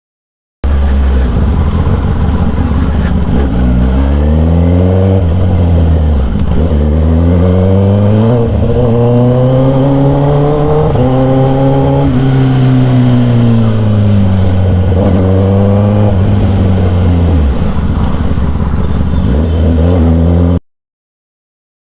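Kawasaki ZX-10R inline-four with an SC Project aftermarket exhaust, ridden: the engine note climbs smoothly over several seconds, falls back, and then holds steady at low revs. The sound cuts in just after the start and cuts off abruptly near the end.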